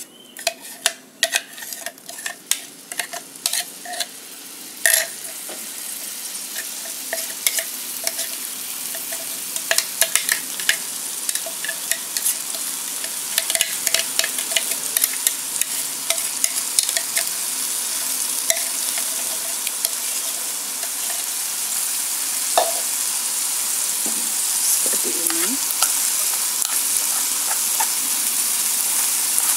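Blended chili spice paste, made with oil, sizzling in a hot nonstick wok, the frying hiss building steadily louder. A metal spoon clicks and scrapes against the glass blender jar as the paste is scraped out, mostly in the first half.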